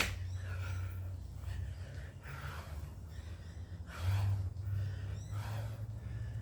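A man breathing hard during a workout: several heavy, noisy breaths, the loudest about four seconds in, over a steady low hum. A sharp click sounds right at the start.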